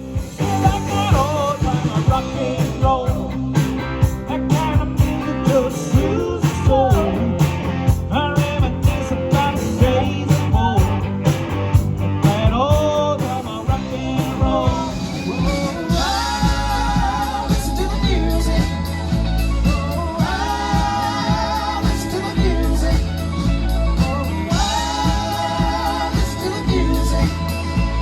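A rock and roll band playing, with guitar, bass and drums. About halfway through, fuller sustained chords and a heavier bass line come in.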